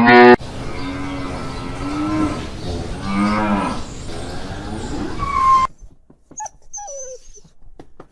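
Cattle mooing: several low, drawn-out moos. They cut off abruptly about two thirds of the way through, leaving quieter clicks and a short falling call.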